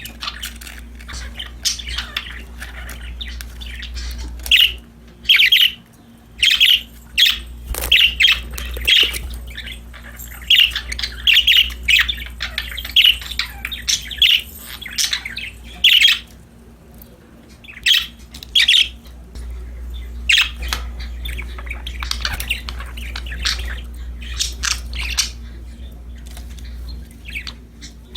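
Pet budgerigars chirping and squawking in many short, quick calls, with a steady low hum underneath.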